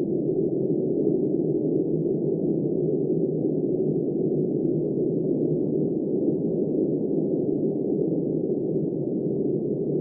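Blizzard wind blowing as a steady, muffled, low rush with no distinct gusts.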